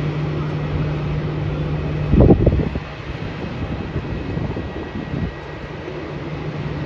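Jet aircraft engine noise heard across the airport, a steady low hum under a broad rumble. About two seconds in there is one short, loud thump.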